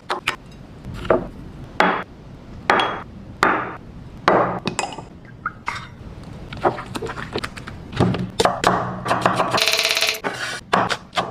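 Kitchen cooking sounds: a string of sharp knocks and clinks of utensils against pots and a chopping board, with a brief scraping rattle about ten seconds in.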